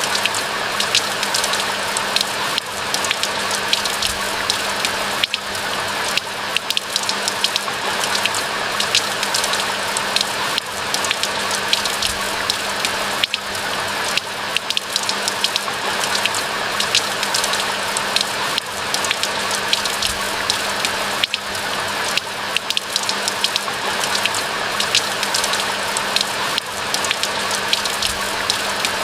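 Steady rain falling, a continuous hiss with many sharp individual drop ticks close by.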